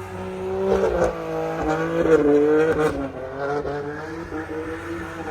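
A car spinning in a burnout, its engine revving hard and its tyres squealing in wavering, shifting tones.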